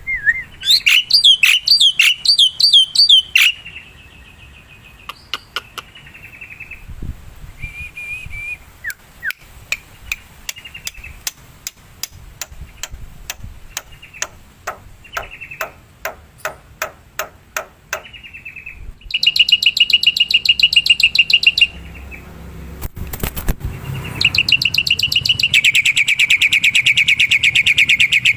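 Black-winged myna (jalak putih) calling: a varied run of sharp chirps, short whistles and clicks, then loud, fast rattling trills about two-thirds of the way through and again near the end.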